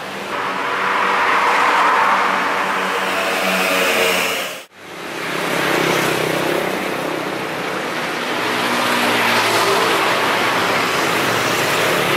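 A Toyota C-HR's engine running as the car is driven slowly under the carport. Before that, a steady hiss with a low hum, which breaks off suddenly about a third of the way in.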